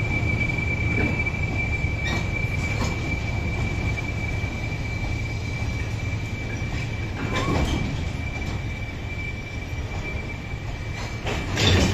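Train of goods wagons rolling slowly past close by, with a steady high-pitched squeal from the running gear over the rumble of the wheels. Scattered clanks and knocks come over the rail joints, the loudest just before the end.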